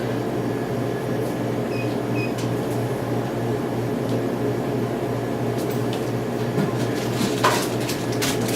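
Steady low mechanical hum, like air conditioning or a machine running indoors, with a few faint clicks and knocks near the end.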